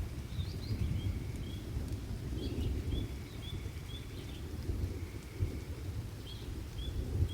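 Rainstorm ambience with a continuous low rumble, while a small bird repeats short high chirps about every half second.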